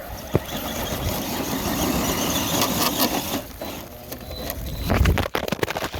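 Traxxas TRX-4 Sport RC truck's Castle 3800 kV brushless motor and drivetrain whirring as the truck strains up a steep dirt slope. A burst of knocks and clatter follows about five seconds in.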